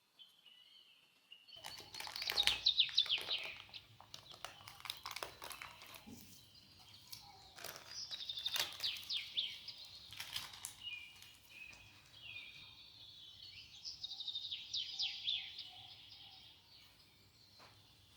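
Small birds chirping and twittering in three bursts of quick notes, with sharp clicks or taps mixed in.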